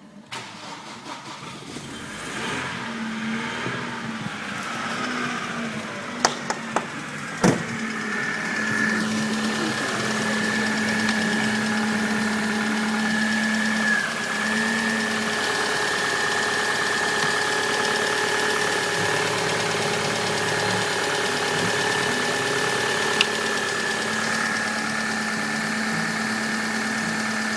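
Opel Omega B's 2.0-litre X20XEV sixteen-valve four-cylinder petrol engine running steadily at idle, with a steady high-pitched whine over it. A few sharp clicks come about six to seven seconds in.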